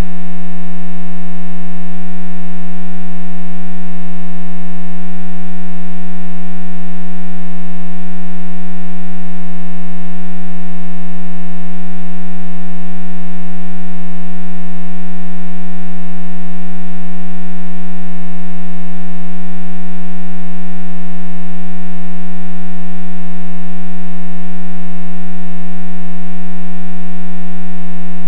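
A loud, unchanging hum with a series of fainter overtones above it.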